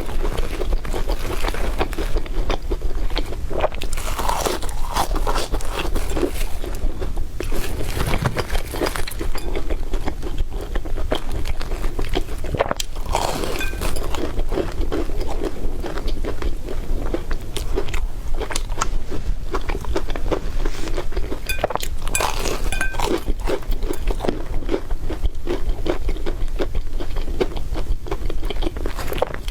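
Close-miked chewing and crunching of crispy bread: a continuous run of crackly bites and chews.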